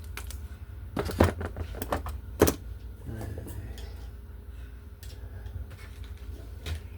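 Phillips screwdriver working at a screw on a wall outlet: a few irregular metal clicks and knocks, the sharpest about two and a half seconds in, over a low steady hum.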